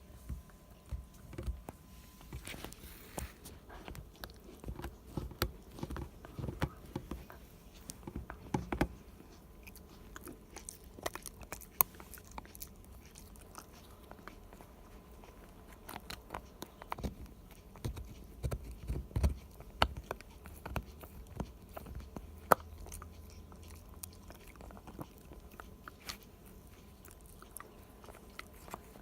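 A Shiba Inu gnawing and crunching a hard cow hoof chew: irregular chewing with sharp cracks and clicks, some in quick clusters.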